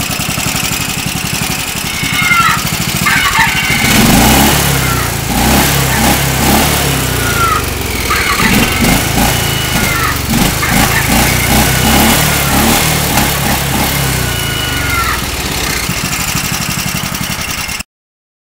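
Riding lawn tractor engine running, growing much louder about four seconds in, with short high chirps repeating over it; the sound cuts off suddenly near the end.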